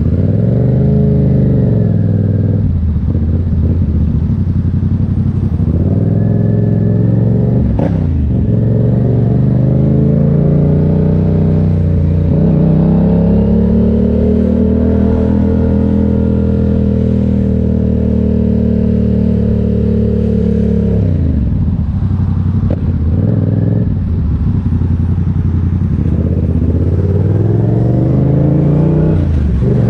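Motorcycle engine speeding up and slowing down again and again, its pitch rising and falling, with a long steady stretch at higher revs in the middle before it drops away. There is a single sharp click about eight seconds in.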